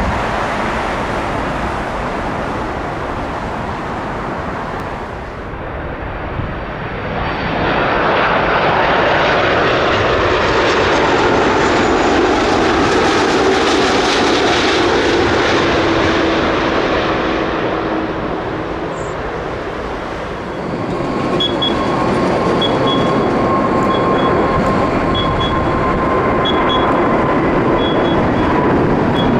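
Jet airliner engines passing low overhead, with a steady whine over the noise. The sound swells about seven seconds in, eases briefly near twenty seconds, then rises again.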